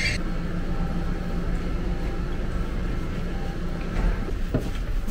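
Steady low rumble and hum of an electric regional passenger train standing at the platform, with a few short knocks about four seconds in.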